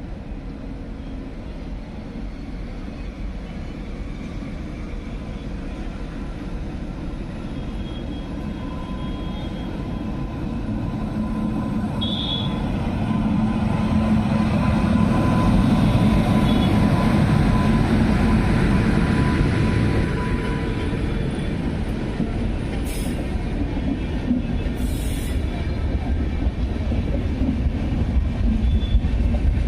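Howrah Mail express train running slowly along the track: a steady rumble that grows louder toward the middle, with a thin steady squeal held for several seconds and two short high hisses near the end.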